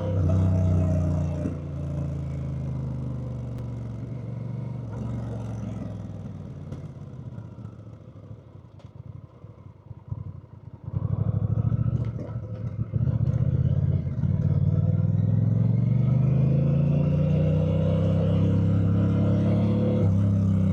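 Honda Rebel 1100's parallel-twin engine slowing down with its note falling, dropping to a low idle near the middle, then pulling away with the engine pitch climbing steadily.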